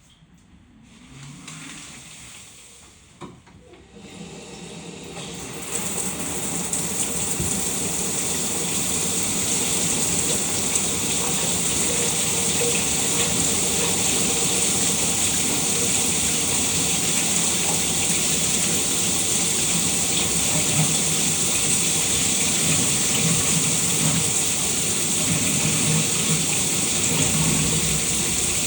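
Shower water spraying and splashing in a steady hiss. It starts faint, with a small click about three seconds in, swells over the next few seconds, then holds steady.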